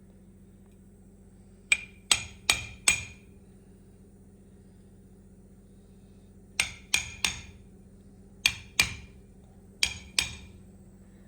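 Hammer tapping on metal parts of a truck steering column during reassembly: sharp ringing taps in quick groups, four and then three, followed by two short pairs.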